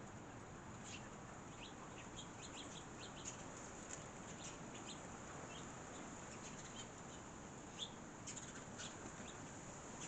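Small birds chirping: many short, high chirps, scattered and sometimes overlapping, over a steady background hiss.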